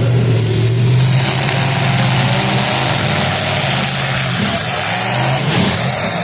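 Demolition derby cars' engines running and revving together, a steady loud engine drone over a noisy wash.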